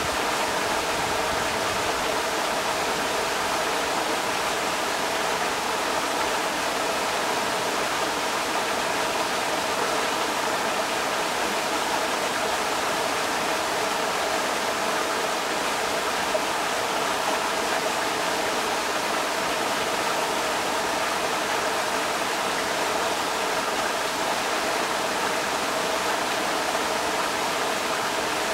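Creek water rushing over rocks: a steady, unbroken rush.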